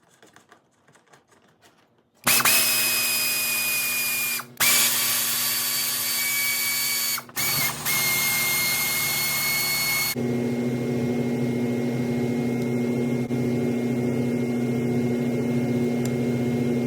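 A small power tool starts about two seconds in and runs steadily with a high whine over a hiss and a low hum, dropping out briefly twice. About ten seconds in the sound changes to a stronger, lower hum with less hiss.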